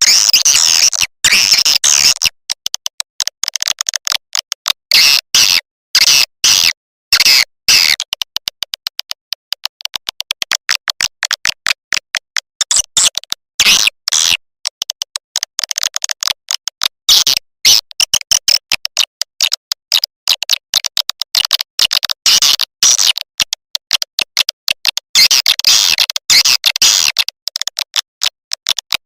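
Swiftlet lure call: rapid, high-pitched twittering chirps and clicks of swiftlets. It comes in short bursts with brief gaps at first, then in denser, faster trains from about eight seconds in. It is the kind of call played at a swiftlet house to draw swiftlets in.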